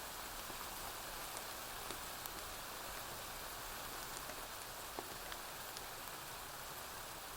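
Steady rain hiss, with a few scattered sharp ticks.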